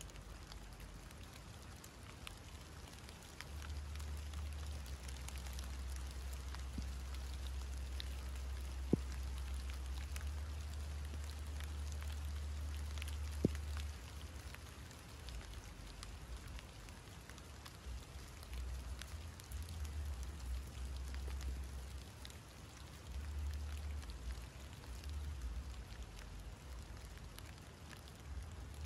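Light rain pattering steadily on foliage and ground, with a low wind rumble on the microphone from about three seconds in that comes and goes later. Two sharp clicks stand out, about nine and thirteen seconds in.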